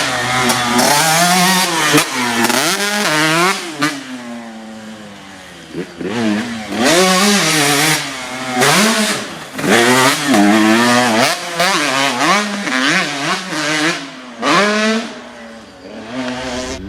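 KTM SX 125 two-stroke single-cylinder motocross engine revving hard, its pitch rising and falling repeatedly as the throttle is worked. The level drops twice while the throttle is off, once about four seconds in and again near the end.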